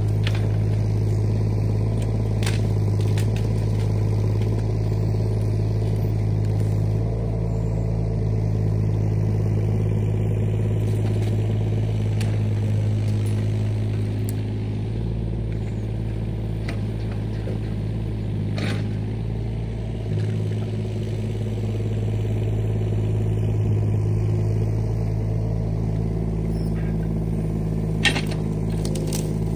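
Diesel engine of heavy construction equipment running steadily, with a few short clanks.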